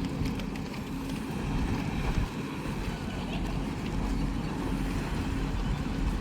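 Large ship's steady low rumble with a faint constant hum, under wind buffeting the microphone.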